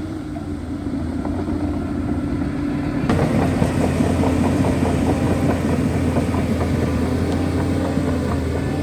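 Shantui DH17C2 bulldozer's diesel engine running steadily. About three seconds in it gets louder and a dense crackling and clattering joins it, typical of the dozer working under load.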